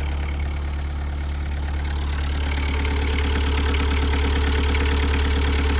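VW Caddy's 1.9 SDI four-cylinder diesel engine idling steadily with an even diesel clatter. The clatter grows a little louder about halfway through.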